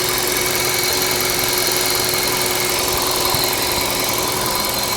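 2007 Audi S8's 5.2-litre V10 idling steadily with the hood open, a faint steady whine over the engine sound.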